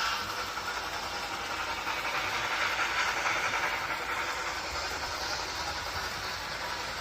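A train running by with a steady rushing noise that swells about two to four seconds in.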